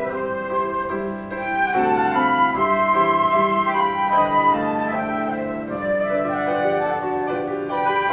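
Flute playing a melody over piano accompaniment.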